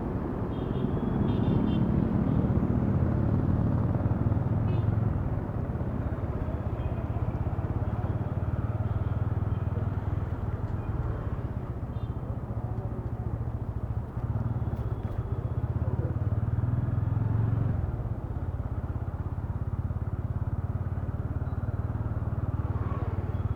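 A TVS Ronin's single-cylinder engine and exhaust running under way, heard through the rider's helmet microphone. It is a little louder over the first few seconds as the bike accelerates, then settles into a steady cruise.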